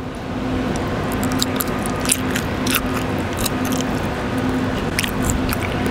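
Close-up chewing of a slice of crispy-skinned seared duck breast: irregular wet crunches and mouth clicks over a steady background hum.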